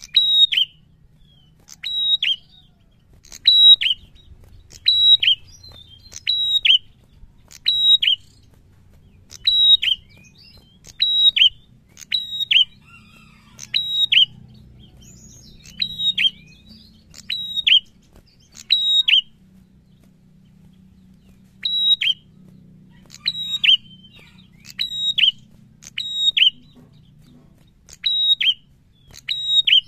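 Caged prenjak singing: loud, short high-pitched notes, each dropping sharply in pitch, given mostly in pairs and repeated about every second and a half, with one break of about two seconds past the middle.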